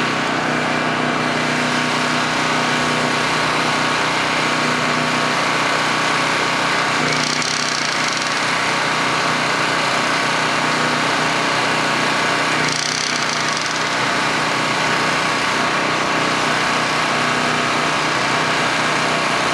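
Portable gasoline generator engine running steadily while warming up, with a small electrical load plugged in. A brief higher-pitched rush of noise comes twice, about seven and thirteen seconds in.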